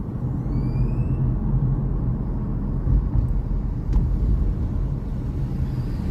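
Car road noise heard from inside a slowly driven car: a steady low rumble of engine and tyres, with a brief rising whistle about half a second in.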